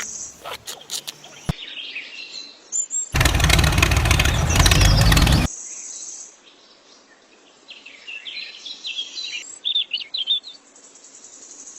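Birds chirping, broken about three seconds in by a small engine running for roughly two seconds that starts and stops abruptly. Birds chirp again near the end.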